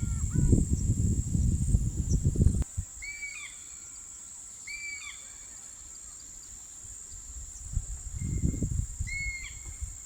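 A bird giving short, hooked, upward-bending calls three times, about two seconds and then four seconds apart, over a steady high-pitched insect drone. A low rumbling noise, louder than the calls, fills the first two and a half seconds and comes back near the end.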